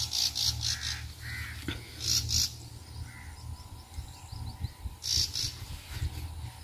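Birds calling in short, repeated scratchy bursts, with a steady low rumble underneath.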